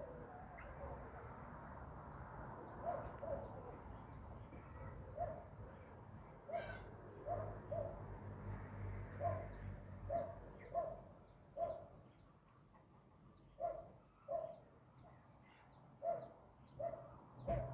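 Birds calling: a run of short, low notes about once a second, with faint higher chirps between them.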